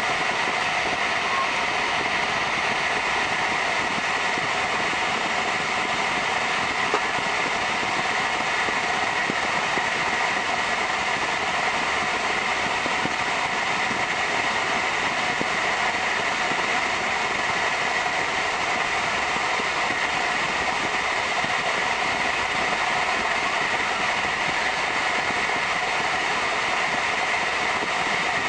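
Steady running noise inside a passenger train carriage as the train rolls out over the tracks: an even hiss and rumble, with one short click about seven seconds in.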